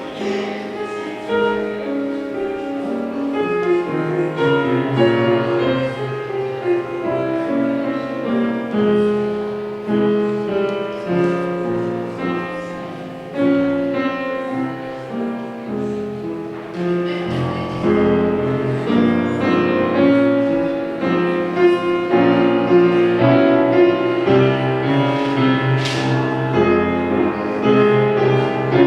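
Piano music: a continuous instrumental piece with many overlapping notes.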